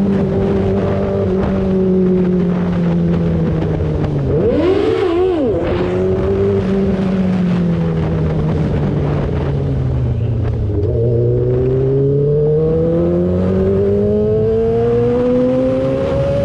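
Yamaha R6's 600cc inline-four engine under way: the engine note falls slowly as it eases off, gives a quick rev blip about five seconds in, sinks further, then climbs steadily from about eleven seconds as the bike accelerates.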